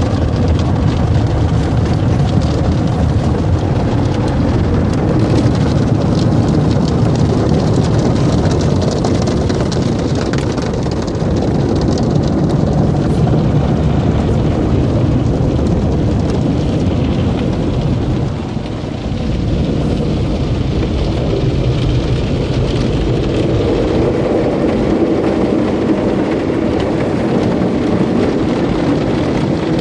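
Automatic car wash working over a car, heard from inside: a loud, steady rush of water spray and machinery on the body, dipping briefly about two-thirds of the way through.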